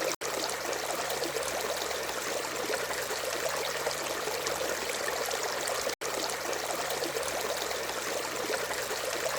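A stream of water flowing and trickling in a steady rush, with two very brief dropouts, one just after the start and one about six seconds in.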